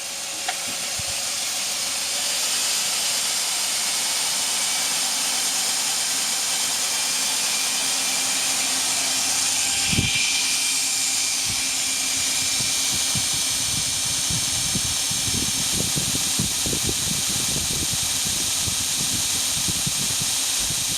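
2x72 belt grinder with a 3,480 rpm motor being spun up to a higher speed. The motor and belt run up over the first couple of seconds, then run steadily with a high hiss and whine. There is a brief knock about halfway through.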